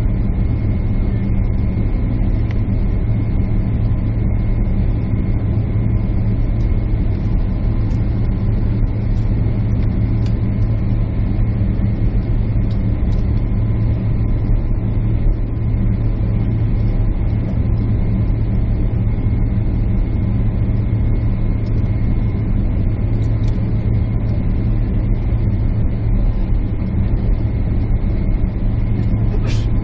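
Steady cabin noise of a jet airliner heard from a window seat: the engine drone and rushing air, unbroken and even, with a few constant tones running through it. A brief click comes near the end.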